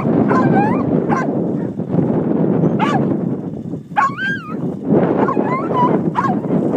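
A dog whining and yipping in a string of short, high cries that bend up and down, over a steady rush of noise.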